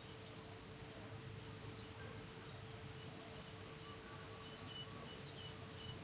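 Faint calls of small birds: three short rising chirps about a second and a half apart, with a few brief higher notes, over a steady low hum.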